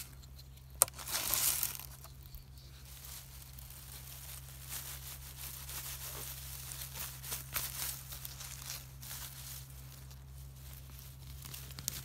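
Rustling and crackling of dry plant material, with a sharp snap just under a second in followed by a brief louder rustle.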